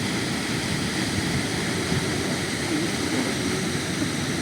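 A waterfall pouring into the sea, a deep, steady rush of falling water.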